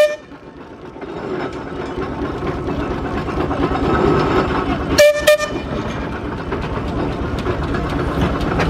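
Steam traction engine whistle giving two short blasts about five seconds in, with the tail of an earlier blast at the very start. Under it the engines keep up a steady running rumble.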